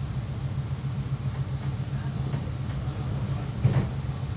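Electric passenger train running, heard from inside the carriage as a steady low rumble, with one sharp knock a little before the end.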